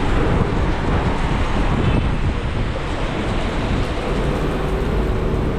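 Heavy rain pouring down on a street, a loud steady hiss. A low steady hum from a passing vehicle joins near the end.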